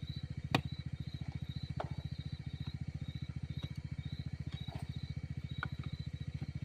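A small engine or motor running steadily with a fast, even low thudding, about a dozen beats a second, with a few sharp clicks on top.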